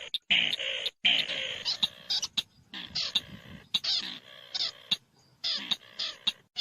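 Long-tailed shrike giving harsh, raspy calls and chattering notes in quick bursts, with brief pauses between them.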